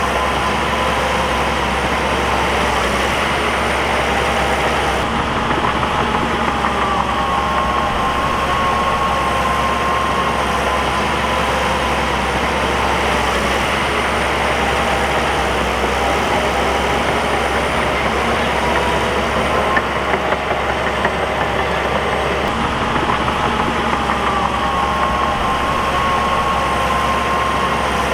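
Bulldozer's diesel engine running steadily at working revs, its pitch rising and falling gently twice as the load changes.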